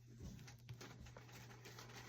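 Near silence: a low steady hum with a few faint taps and light rustles of packaged toy figures being handled.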